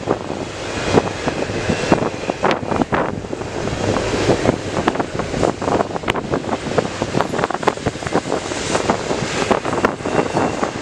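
Double-stack intermodal freight cars rolling past on steel wheels: a steady rumble of wheels on rail, broken by frequent sharp clacks and clanks from wheels and trucks over the rail joints.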